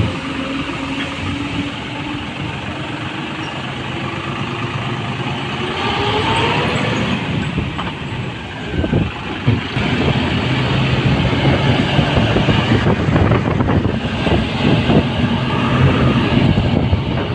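Eicher 650 tractor's diesel engine running, its pitch rising as it revs up about five to seven seconds in, then a heavier steady rumble through the rest.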